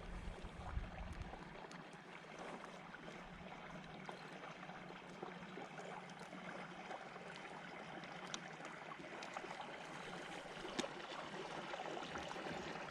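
Faint water lapping and trickling around a kayak, with a few small clicks and knocks.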